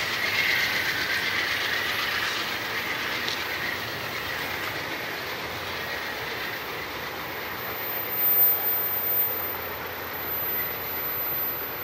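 Amtrak passenger cars rolling by on a curve and moving away, wheels clicking over the rail joints and fading. A high wheel squeal on the curve sounds at first and dies away; a short louder burst comes about eight seconds in.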